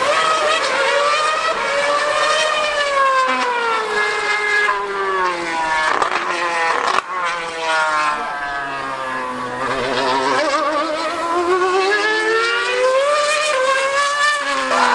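2013 Formula One car's 2.4-litre V8 screaming at high revs as it laps the circuit. The pitch rises and falls as the car accelerates, brakes and changes gear, sinking lowest about halfway through and climbing again near the end.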